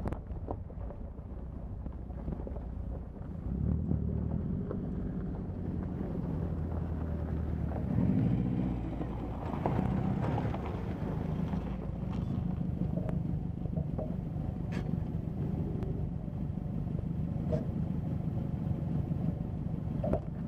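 Subaru Forester XT's turbocharged flat-four engine running under way, heard from inside the cabin. The engine note picks up about three and a half seconds in and rises in pitch as it revs around eight seconds in, then holds a steady drone with a few light ticks.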